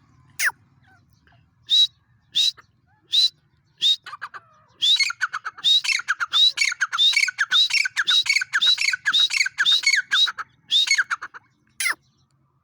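A bird giving loud, sharp squawking calls: single calls at first, then a fast run of many calls from about four seconds in, and one last call near the end.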